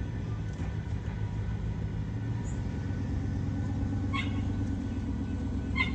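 Steady low rumble of a loaded gravel train's diesel locomotive and cars, with a dog barking twice near the end.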